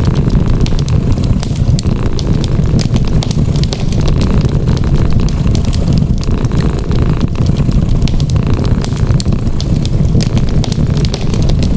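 Wood fire crackling with many small, irregular pops over a steady low rumble, mixed with a cat purring.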